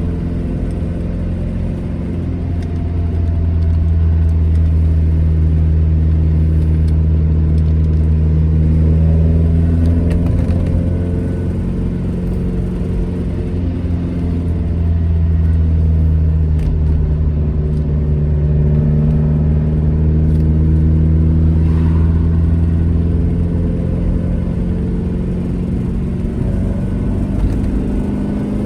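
Classic Alfa Romeo GT Junior's twin-cam four-cylinder engine running steadily while driving, its revs rising a little twice and easing off in between.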